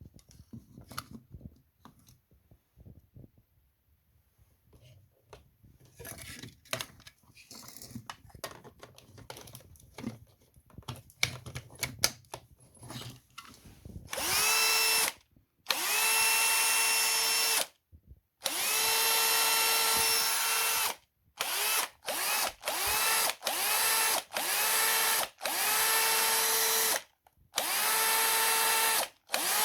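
Cordless drill, running on a rebuilt battery pack of 18650 laptop cells with a BMS board. It is triggered on and off over and over, spinning up to a steady whine each time: three longer runs, then a string of short bursts. Before the first run there are several seconds of light clicks and knocks from handling.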